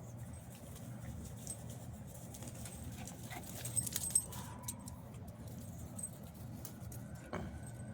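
Puppies scuffling at play, with a quick cluster of sharp clicks and jingles about four seconds in, over a steady low hum.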